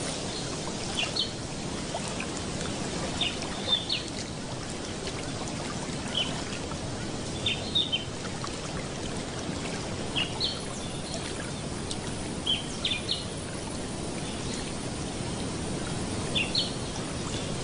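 Wetland ambience: a steady wash of water-like noise, with a bird giving short high chirps in groups of two or three every couple of seconds.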